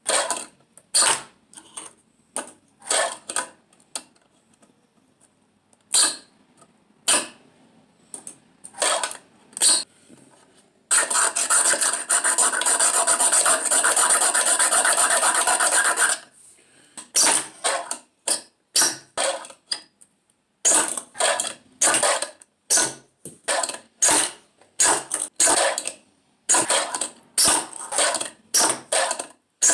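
Fingerboard with sparking trucks being ridden by hand: repeated short clacks and scrapes of the board and trucks on hard surfaces, with one long rasping scrape lasting about five seconds in the middle.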